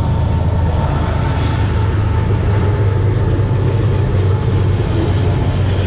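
A steady low rumble with a faint high tone held through it, unchanging throughout.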